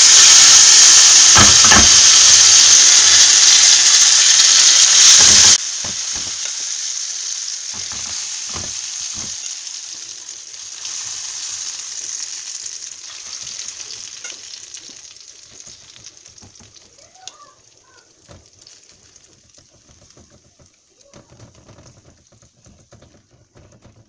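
Grated potato and egg mixture sizzling loudly in hot oil in a frying pan. The sizzle drops sharply about five seconds in, then dies away slowly, with scattered scrapes and taps of a metal spoon spreading the mixture.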